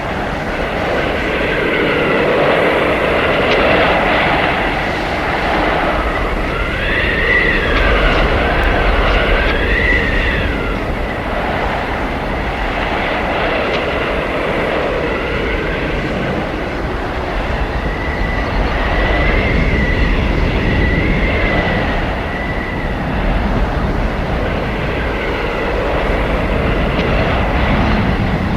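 Blizzard wind howling: a steady rush of wind with whistling tones that rise and fall, strongest about seven to ten seconds in and again around twenty seconds in.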